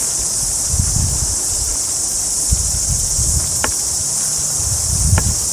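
Steady, high-pitched chorus of insects, with intermittent low rumbles and two faint short ticks in the second half.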